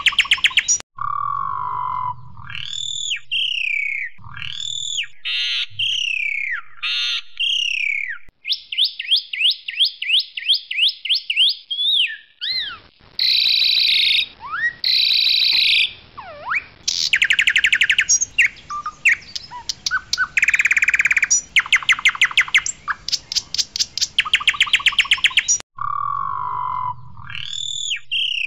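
Asian pied starling (jalak suren) singing a long, varied song: clear whistled notes that slide up and down, mixed with fast stuttering rattles of rapidly repeated notes and buzzy chatter, broken by short pauses.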